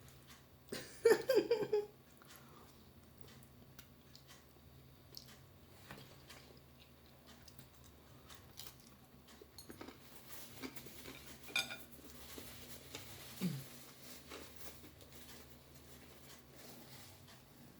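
Faint eating sounds: chewing and small clicks and taps of utensils on a dish while eating noodles. About a second in there is a short, louder pitched sound like a voice, and a brief falling one near the three-quarter mark.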